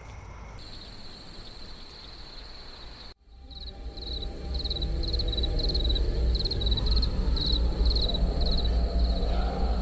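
Crickets at night. First comes a steady high trill. After a sudden cut about three seconds in, a chirp repeats about twice a second over a low rumble.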